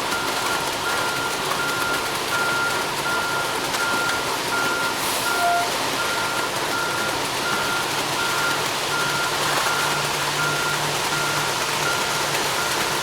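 Ready-mix concrete truck's reversing alarm beeping steadily, about two beeps a second, over the truck's running engine.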